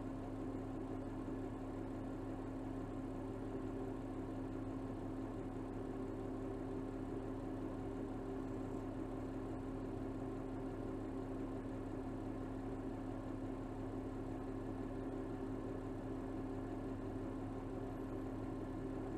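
2024 Mercedes GLS 450's 3.0-litre turbocharged inline-six engine, recorded from under the hood, running at a steady low speed with a constant hum and no change in pitch.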